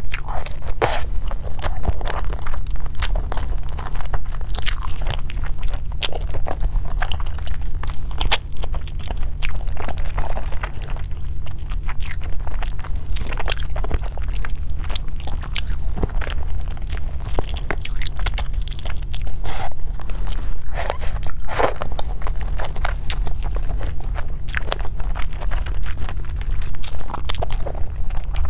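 Close-miked chewing of sauce-braised chicken feet: a dense run of short clicks and crackles from biting and working the meat off the bones, over a steady low hum.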